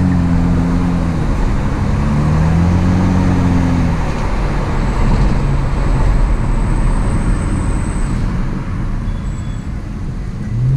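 A car engine runs with a low drone whose pitch dips, climbs again about two seconds in, and falls away about four seconds in, leaving steady road and traffic noise.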